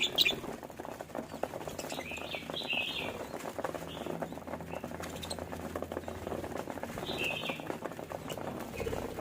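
Pet budgerigars chirping in short bursts every second or two, over constant light clicking and scratching, with a sharp click just after the start.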